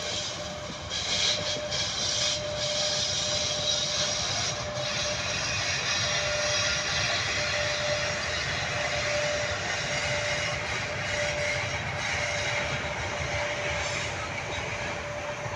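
Passenger train rolling past behind an EP1 electric locomotive: the steady running noise of coaches on the rails, with a thin steady whine throughout, growing a little louder about a second in.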